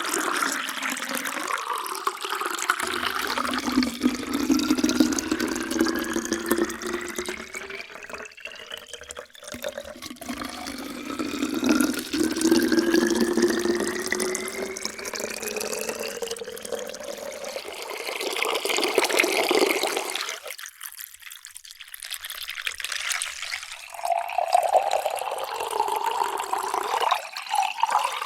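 Water poured into a container, the resonant tone rising steadily in pitch as the vessel fills. There are several separate pours, with a short quieter break about three-quarters of the way through.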